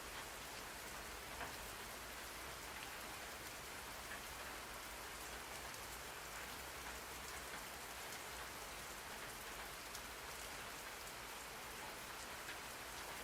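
Steady rain falling, an even hiss with scattered faint drop ticks, played as a white-noise backdrop.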